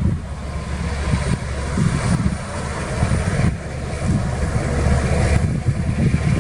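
Diesel engine of heavy earthmoving machinery running, a steady low rumble with a noisy haze above it.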